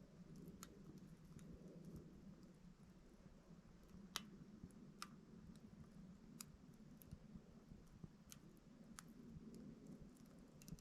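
Small wood fire burning in a Vargo titanium hexagon wood stove, crackling faintly with scattered sharp pops, the loudest about four seconds in, over a low steady hum.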